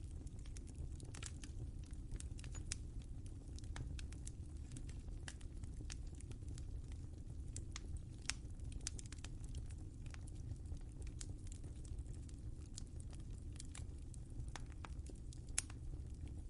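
Wood fire crackling in a fireplace: irregular sharp pops and snaps over a low steady rumble, with a louder pop near the end.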